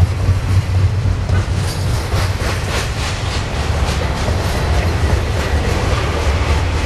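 Norfolk Southern freight train rolling past close by: a steady low rumble with rapid clicks of wheels over the rail joints.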